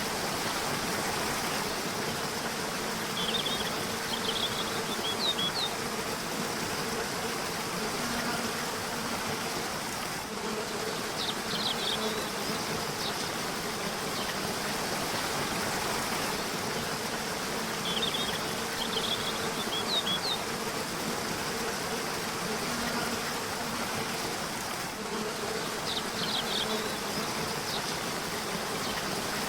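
Steady rushing water of a river or waterfall, with short high bird chirps in small clusters about every seven seconds.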